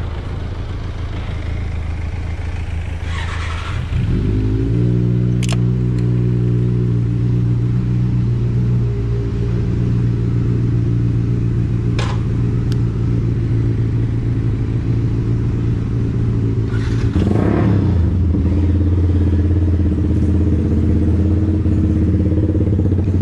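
Motorcycle engine running at idle. About four seconds in its pitch rises and it settles into a louder, steady run, with another change in the engine note near the end. Two sharp clicks are heard along the way.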